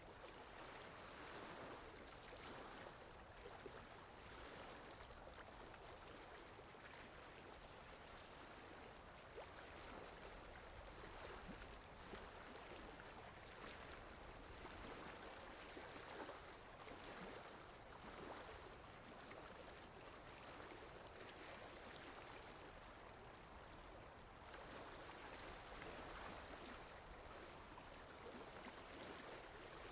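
Steady rain falling: a faint, even hiss with a light patter of drops.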